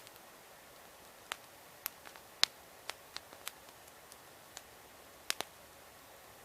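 Wood campfire crackling: a dozen or so irregular sharp pops and snaps over a faint steady hiss, the loudest about two and a half seconds in.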